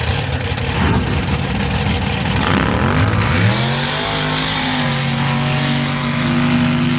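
Sand drag vehicles, a truck and a Can-Am side-by-side, running a pass with engines at full throttle. About three seconds in, one engine's pitch rises quickly and then holds steady.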